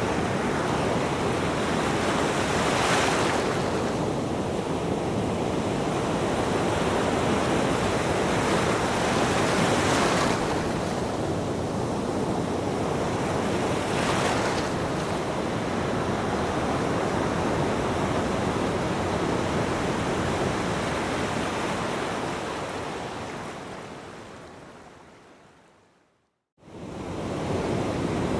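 Ocean surf, waves breaking and washing up a beach in a steady hiss, swelling with a crash three times in the first half. Near the end it fades out to silence, then comes back in quickly.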